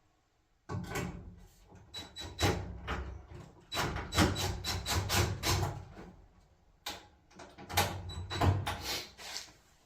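Dryer cabinet parts being handled and fitted during reassembly: a run of knocks, clatters and scrapes of panels and clips, starting about a second in and going on in clusters.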